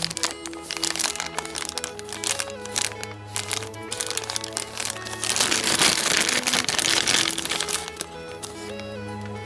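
Background music with crinkling and crackling of packaging being handled, heaviest from about five to eight seconds in.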